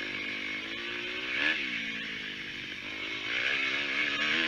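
Dirt bike engine running and revving, its pitch rising sharply about a second and a half in, then wavering up and down with repeated throttle blips in the last second or so.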